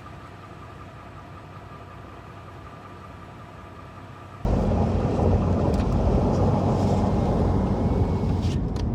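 Vehicle on the move: a faint steady hum with a few held tones, then, about four and a half seconds in, a sudden jump to a loud, steady, low road rumble.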